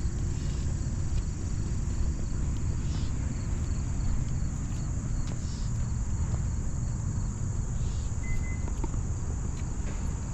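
Steady rush of falling water, heaviest in the low end, with insects trilling on a steady high note and a faster pulsing chirp above it.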